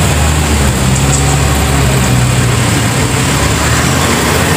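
Vehicle engine running at idle close by, a steady low drone.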